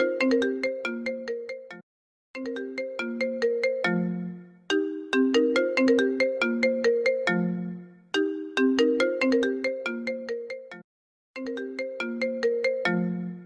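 Apple ringtone playing on a loop: a melody of quick, plucked, bell-like notes in phrases of a few seconds, each phrase ending on a lower held note. The melody breaks off into brief silences twice, about two seconds in and near the end, then starts over.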